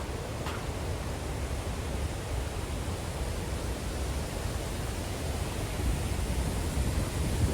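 Steady roar of rushing water from the Iguazu waterfalls, an even noise heaviest in the low end that grows a little louder near the end.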